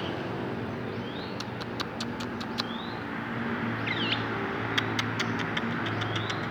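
Songbird giving short, rising chirps about once a second, with one longer, more complex call near the middle, over clusters of sharp clicks and a steady low hum.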